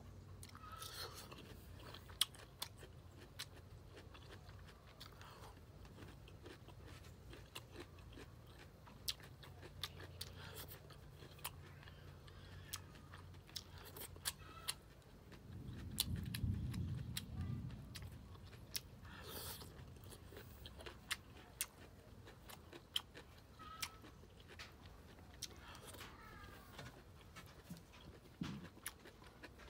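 Close-up chewing and crunching of baby corn and stir-fried vegetables, with many sharp clicks through it. About halfway through, a low rumble of about two seconds is the loudest sound.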